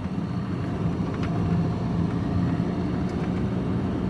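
Lorry engine and road noise heard from inside the cab while driving: a steady low drone with a few faint clicks.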